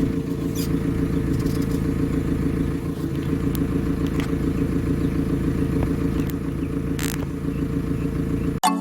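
Backhoe's diesel engine running steadily under a low rumble, with scattered clicks and rattles from the machine as it is driven. It cuts off suddenly near the end, where music begins.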